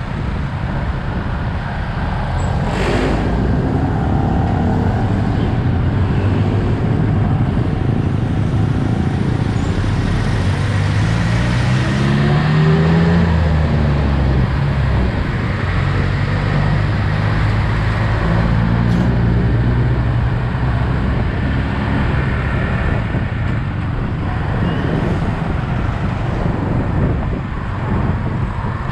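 Yamaha XSR 155's single-cylinder engine running on the move, heard from the rider's position with wind and road noise on the microphone. The engine note rises and falls as the rider opens and closes the throttle.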